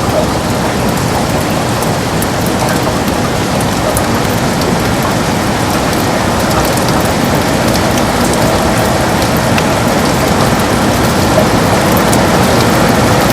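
Heavy rain falling steadily against a window, a dense even hiss dotted with sharp taps of single drops.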